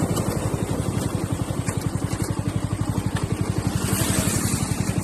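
Bajaj Pulsar NS125's single-cylinder engine running at low revs, its exhaust beating in even pulses about a dozen times a second.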